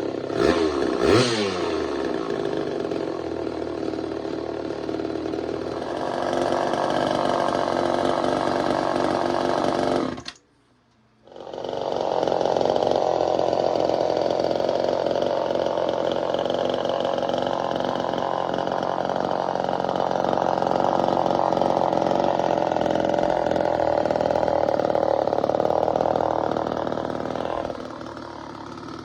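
Early-1970s Craftsman 2.3 chainsaw, a Poulan-built two-stroke, running. It revs briefly about a second in, cuts out abruptly about ten seconds in, then runs steadily again and drops in level near the end.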